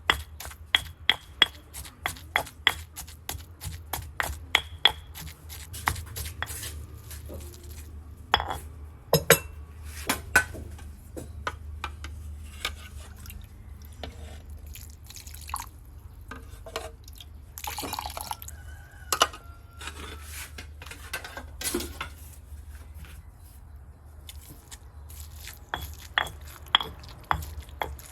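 Food prep: a knife chopping on a cutting board in runs of sharp knocks, a few per second, at the start and again near the end. In between come irregular clinks of dishes and utensils and small liquid sounds.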